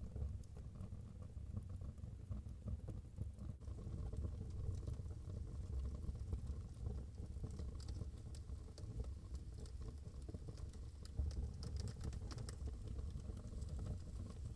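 Wood fire burning in a fireplace: a steady low rumble of flames with scattered small crackles and pops, a little busier in the second half.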